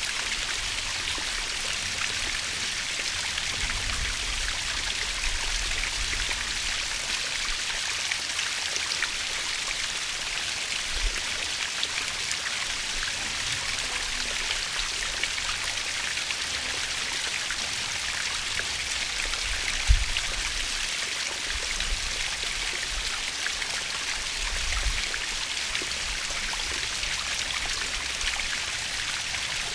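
Waterfall: a steady rushing splash of falling water, with a few brief low thumps, the sharpest about twenty seconds in.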